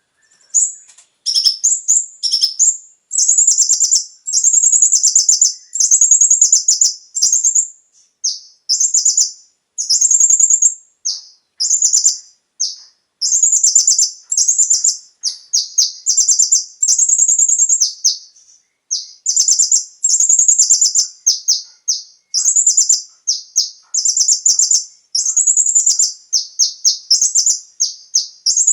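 Kolibri ninja (konin) sunbird singing: rapid, high-pitched chirps and trills delivered in phrases of half a second to about two seconds, with short pauses between them.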